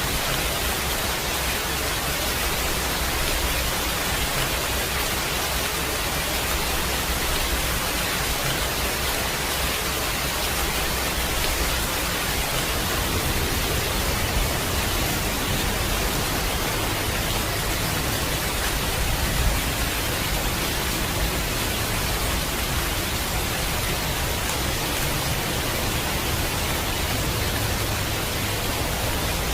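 Heavy rain falling steadily: an even, unbroken hiss with no separate drops or thunder standing out.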